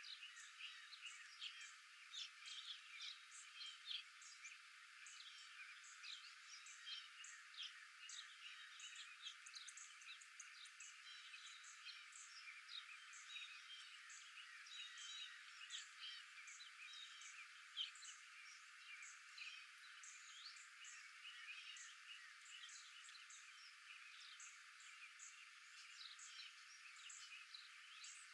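Faint outdoor chorus of many short, high-pitched chirps and calls from small animals, overlapping steadily with no low end.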